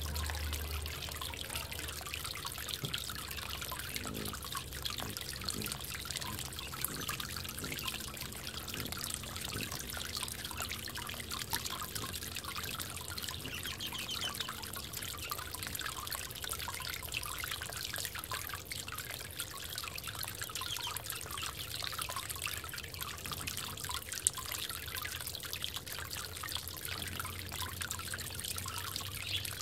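Water trickling steadily in a bird bath, with one sharp click about 24 seconds in.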